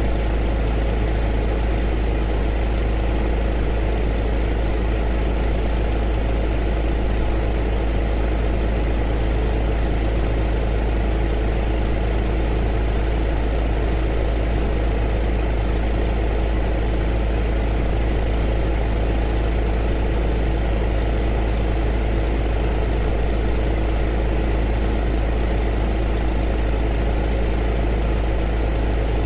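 Heater running steadily: a deep, unchanging rumble with a steady hum over it and an even hiss.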